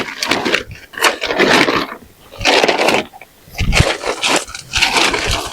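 A mat and tent fabric being handled and spread out inside a tent: repeated bursts of rustling, each under a second, in quick succession.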